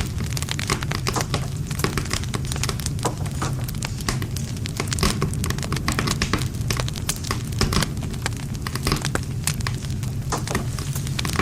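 Wood campfire burning, with dense irregular crackling and popping over a steady low rumble of the flames.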